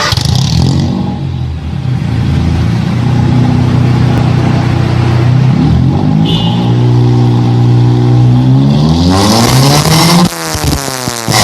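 Car engine through an Alpino S01 racing muffler with downpipe and resonator, running at steady revs. The revs climb slowly, then rise sharply about nine seconds in. Near the end the throttle is suddenly released and the revs fall.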